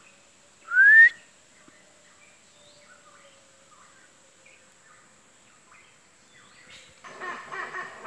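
A pitohui giving one loud, clear rising whistle about a second in, followed by faint scattered bird calls. Near the end louder, busier bird calling starts.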